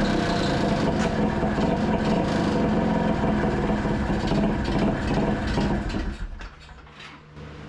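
Rebuilt two-stroke single-cylinder engine of a 1982 Honda Odyssey FL250 running with an uneven, fluttering beat, then falling away about six seconds in. It fails to hold an idle, which the owner puts down to too small a pilot jet, and he hears something dragging, like the drive belt.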